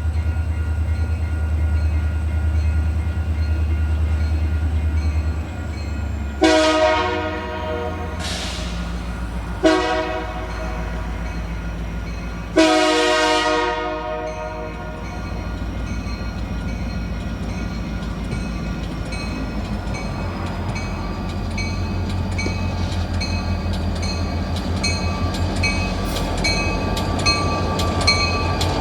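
Union Pacific diesel locomotive running with a low engine rumble, sounding its air horn in the long-long-short-long grade-crossing pattern. In the second half a regular ringing, about two strokes a second, grows louder toward the end.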